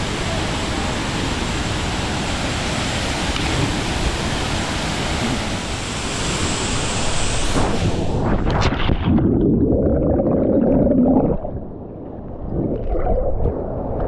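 Steady rushing water of a river and waterfall. About eight seconds in it changes abruptly to a lower, muffled rumble.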